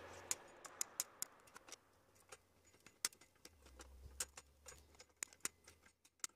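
Small flush cutters snipping the excess leads of soldered IV-11 tubes on the back of a circuit board: a series of faint, sharp, irregular clicks, about three a second.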